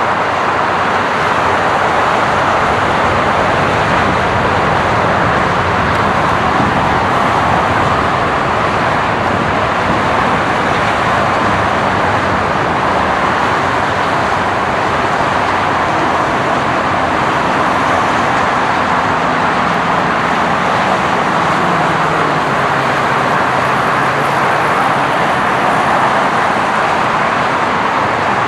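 Jet aircraft engines running, a loud, steady rushing noise that holds evenly throughout.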